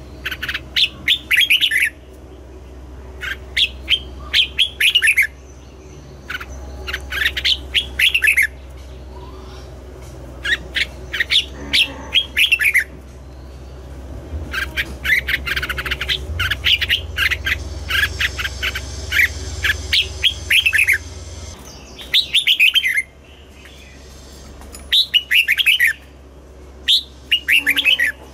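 Red-whiskered bulbul singing: short phrases of quick, falling chirpy notes, repeated every couple of seconds, over a steady low hum.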